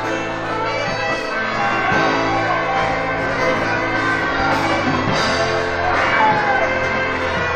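Live music from a church gospel group, with voices singing over the instruments.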